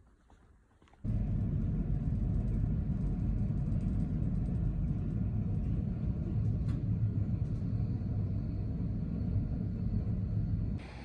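A steady low rumble that cuts in suddenly about a second in and stops abruptly just before the end.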